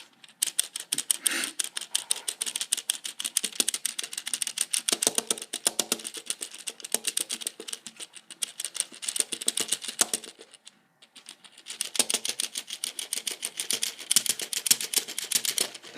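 A rapid, continuous run of sharp clicks, many to the second, breaking off briefly about ten seconds in and then resuming.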